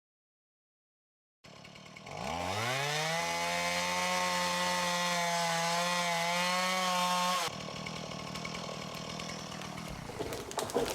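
A chainsaw engine revs up quickly to full throttle and holds at high, slightly wavering revs for about four seconds, then cuts off abruptly. A quieter noisy sound follows, with knocking near the end.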